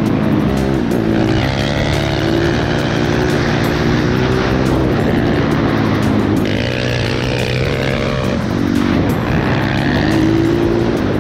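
Pit bike's single-cylinder four-stroke engine running under way, its pitch rising and falling several times with throttle and gear changes.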